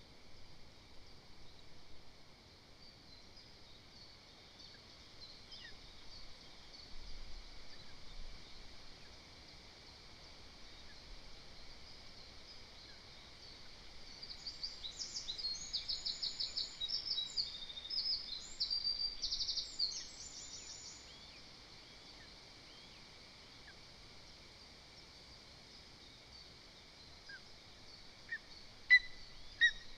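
Songbirds singing in the woodland around the nest over a steady hiss, with faint chirps throughout. About halfway through, one bird sings a louder song of rapid repeated high notes for several seconds. Two sharp clicks come near the end.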